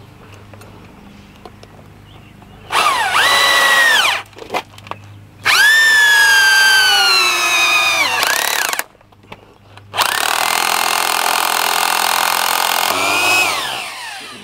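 Cordless drill running in three bursts, making holes or driving screws in sheet-metal ductwork; the motor's pitch sags as it bites and winds down as each run stops.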